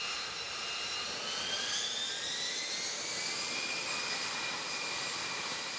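Jet engine running with a steady rushing hiss and a high whine that rises slowly in pitch over the first few seconds, then holds steady.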